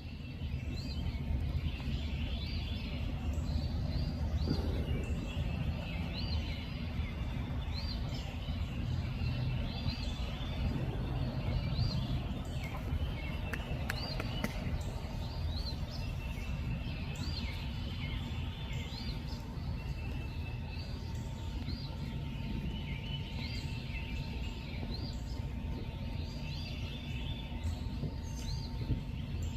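Night outdoor ambience: many short, high chirping calls repeating and overlapping, over a steady low rumble.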